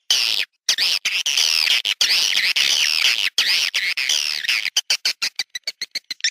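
Swiftlet roosting lure call: a dense, high-pitched twittering chatter that breaks, a little before the end, into a fast run of short repeated chirps. It is the kind of call played in a swiftlet house to get swiftlets to settle and roost there.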